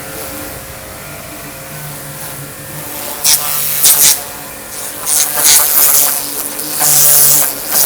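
Small electric pressure washer running with a steady motor hum; about three seconds in, its high-pressure water jet starts hitting a car's body in loud, hissing spurts.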